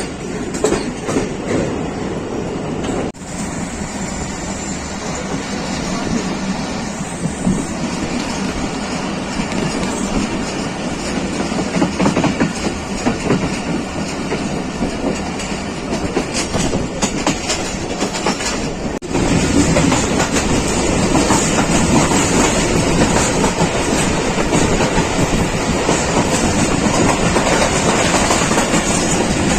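A passenger train running along the track, with a steady rumble of wheels on rails. The sound briefly drops out about three seconds in and again past the middle, and runs louder after the second drop.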